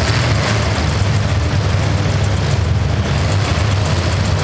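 Several vehicle engines running at idle, a steady loud low rumble.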